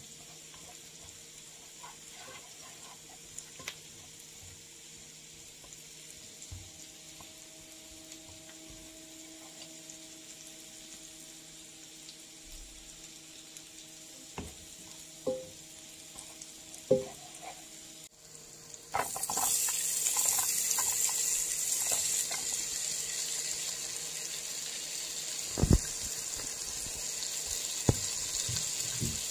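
Chopped garlic frying gently in oil in a pan with a faint sizzle, stirred with a silicone spatula that knocks lightly against the pan a few times. About nineteen seconds in, chopped red onion goes into the hot oil and a much louder, steady sizzle takes over.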